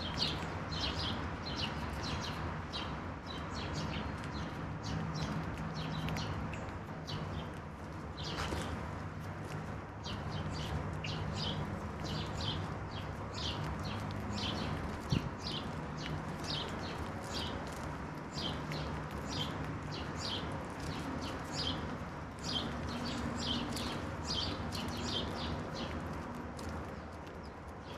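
Garden songbirds chirping in a dense, continuous run of short, high chirps, over a steady low hum, with one sharp click about halfway through.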